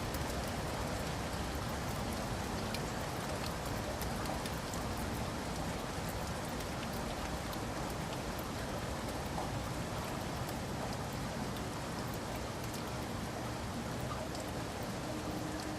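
Steady rain falling, a dense even hiss with scattered drops ticking on hard surfaces.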